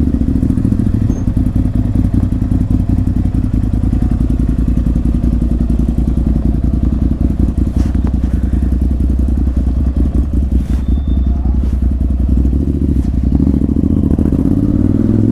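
Ducati Monster 796's air-cooled L-twin engine running steadily at low revs, rising in revs near the end.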